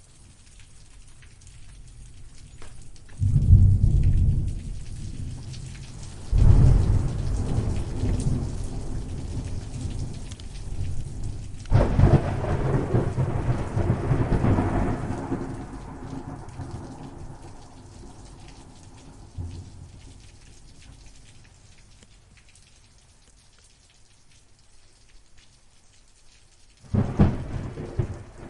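Thunderstorm: rain falling steadily under repeated thunder. Claps break in suddenly about three, six and a half and twelve seconds in, each rolling off over several seconds, the one at twelve seconds the longest, and another clap comes near the end.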